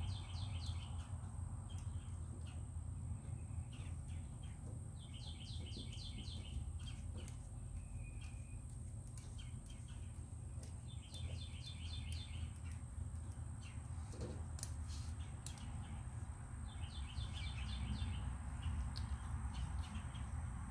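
A songbird singing a short trill of rapid chirps four times, about every five to six seconds, over a steady low hum and a thin high whine. A few faint clicks of small parts being handled.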